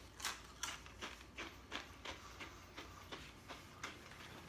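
Crunchy chewing of a ghost pepper chip: short crisp crunches about three a second, growing slowly fainter.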